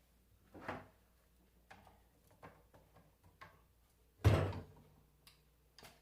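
Bosch alternator being taken apart: metal parts and tools knocking and clicking against each other, with one heavy knock about four seconds in.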